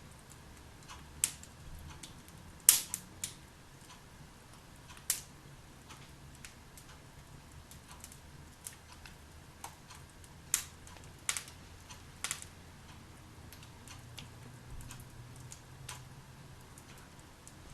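Wood fire crackling in a fireplace: sporadic sharp pops and snaps at irregular intervals, the loudest about three seconds in, over a faint steady background.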